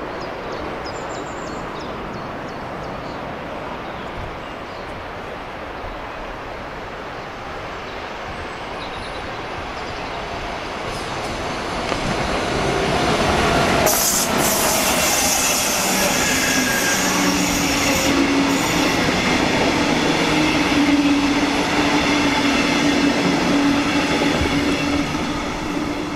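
A regional train of double-deck coaches hauled by a red electric locomotive passing along the tracks. Its rolling noise builds from about ten seconds in and stays loud, with steady whining tones over the wheel-on-rail noise, before falling away near the end.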